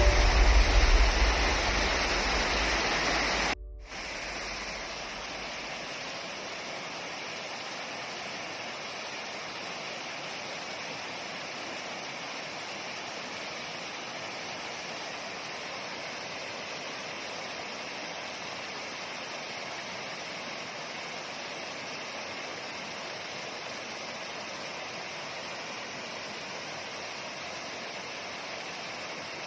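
Steady rush of flowing water. For the first few seconds it is louder, with a deep rumble underneath, then it cuts off abruptly into a quieter, even rush that holds steady.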